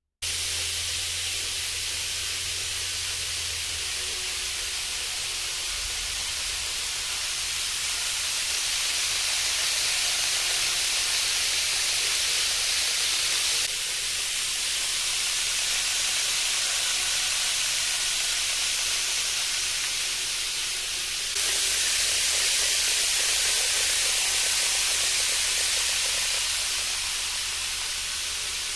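N-gauge model Shinkansen running over track: a steady, high, hissing rolling noise of small wheels on rail. The noise shifts abruptly twice, about halfway through and again about two-thirds in.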